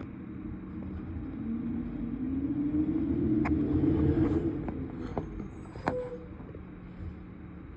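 Garbage truck engine revving: its pitch rises and it grows louder over about three seconds, then drops back to a low rumble. A couple of sharp metallic knocks come partway through.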